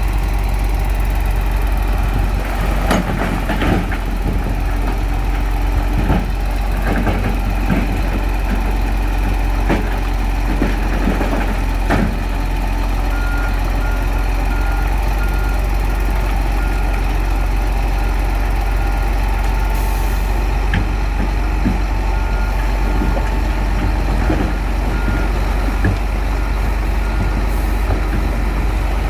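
Shantui bulldozer's diesel engine running steadily under load, with clanks and knocks from the tracks and blade during the first half. From about halfway a reversing alarm beeps repeatedly as the machine backs up, stopping shortly before the end.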